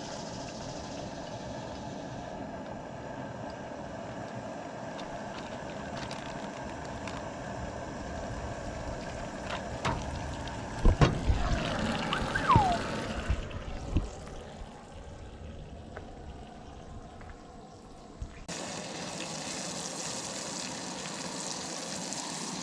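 Camp cooking: a steady hum with a few clatters and knocks partway through, then fish frying in oil with a steady sizzle.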